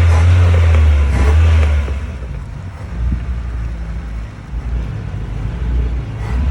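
Motor vehicle engine running with a loud, deep steady hum that drops away about two seconds in, leaving a quieter low rumble.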